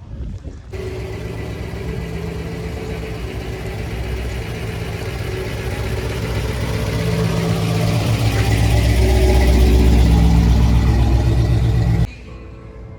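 A car engine running close by, growing steadily louder for about ten seconds, then cutting off suddenly near the end.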